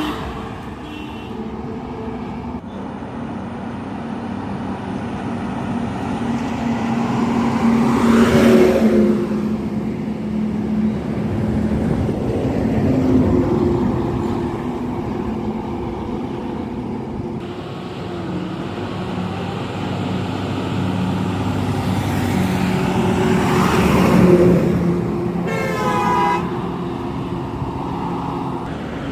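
Tata BS4 truck's diesel engine running steadily at highway speed. There are two swells of rushing noise as vehicles pass, about 8 and 24 seconds in, and a short horn blast near the end.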